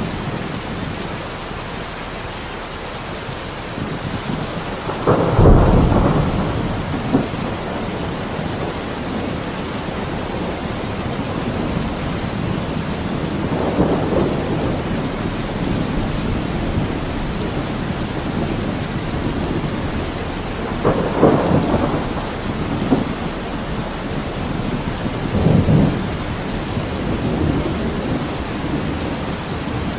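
Thunderstorm: steady heavy rain with several thunder cracks and rumbles, the loudest about five seconds in and more near the middle and towards the end.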